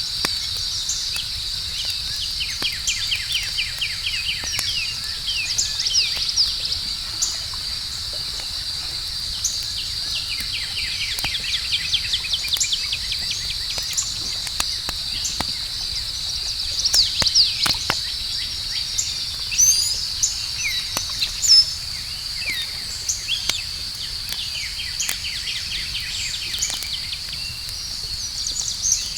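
Campfire crackling with scattered pops, a few louder ones past the middle, over a steady high-pitched insect chorus and repeated bird chirps.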